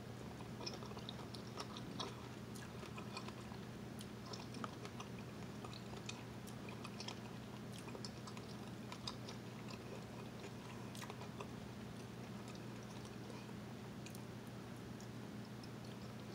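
Close-miked chewing and wet mouth sounds from a person eating, first a strawberry and then a bite of sausage link, with small clicks scattered throughout. A faint steady low hum runs underneath.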